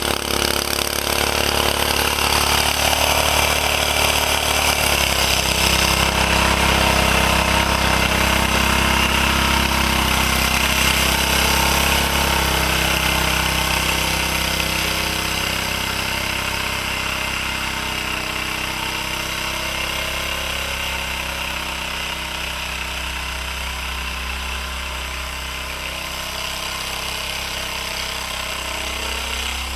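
1949 Bready walk-behind tractor's small gasoline engine running steadily while plowing wet, heavy snow. It gets gradually quieter over the second half.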